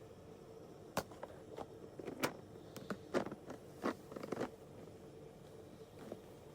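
Cumin and mustard seeds popping in hot oil in a pan: scattered sharp pops, about half a dozen, with a faint steady hum underneath.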